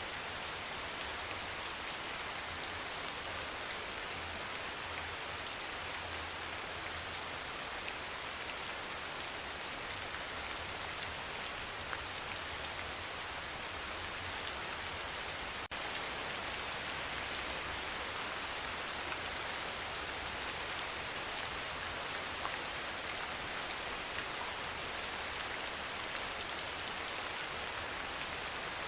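Steady soft rain: an even hiss of drops on surfaces with faint individual drop ticks. There is a brief dip about halfway through, after which it runs a little louder.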